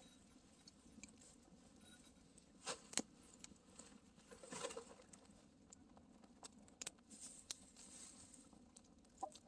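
Campfire crackling faintly, with scattered sharp pops, the loudest a pair about three seconds in.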